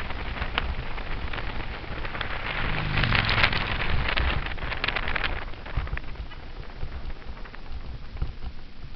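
Wind rushing over a helmet-mounted camera's microphone and bicycle tyres rolling on the road surface while coasting downhill, with a rumble and a crackle of small ticks. It swells about three seconds in and eases off after about five.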